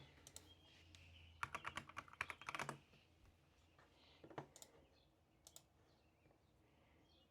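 Typing on a computer keyboard: a sharp tap at the start, a quick run of keystrokes from about a second and a half in, then a few single taps.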